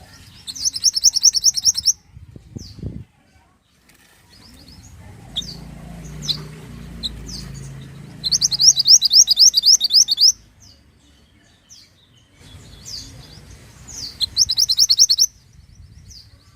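Mantenan songbird singing: three loud bursts of fast, evenly repeated high trill notes, one near the start, one in the middle and one near the end, with short single chirps between them.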